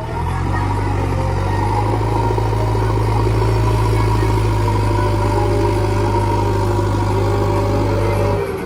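Heavy diesel engine running steadily with a deep, even hum, stopping abruptly near the end.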